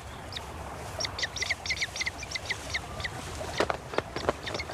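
Birds calling: a quick run of short, high, downward-slurred notes over a low background hiss, with a few sharp clicks near the end.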